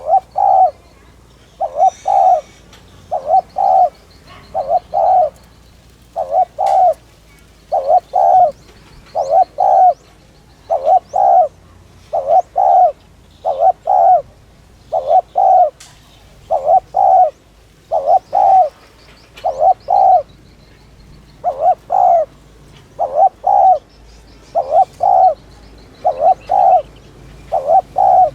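Spotted dove (Streptopelia chinensis) cooing in a fast, unbroken run of short notes in twos and threes, a group about every 0.8 seconds. This is the quick 'thúc' urging coo that keepers play to stir decoy birds and trainee birds into calling.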